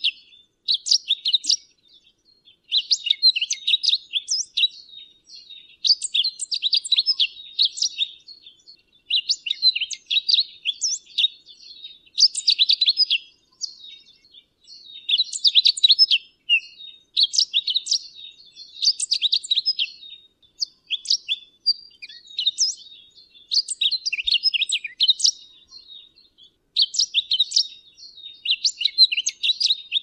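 Pine grosbeak singing: a run of short, high, warbling phrases of quick notes, each a second or two long, with brief pauses between them.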